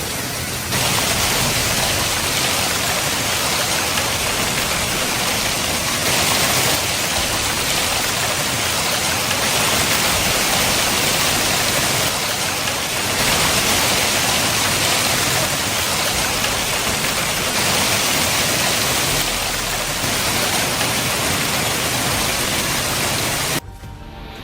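Steady rushing water, a dense unbroken hiss that grows louder about a second in and drops away suddenly near the end.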